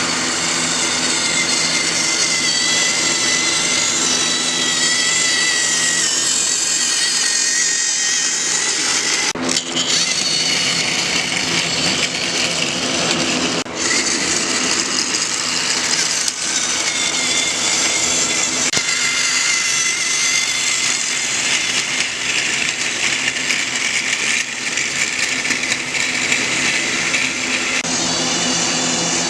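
Motorized toy train engine running around the track pulling coaches: its small electric motor and gears whine steadily, with two brief dips about nine and a half and fourteen seconds in.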